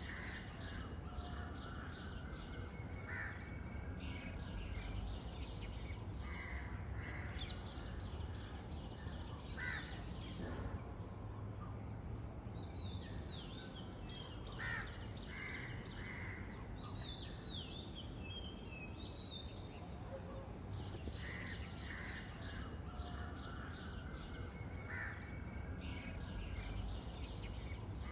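Crows cawing repeatedly in a morning chorus, with smaller birds chirping for a few seconds in the middle, over a steady low background rumble.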